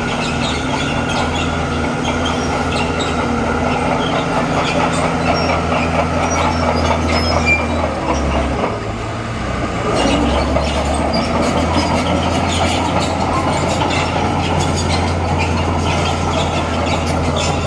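Bulldozer's diesel engine running under load, with its steel crawler tracks squealing and clanking. The engine sound drops briefly about eight seconds in, then comes back louder.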